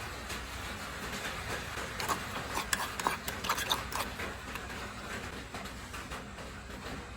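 Light clinks and taps of kitchenware, a utensil knocking against a pot or dish, bunched between about two and four seconds in, over a steady background hiss.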